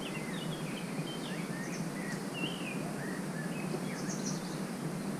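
Small birds chirping in short, quick calls, one after another, over a steady low background noise.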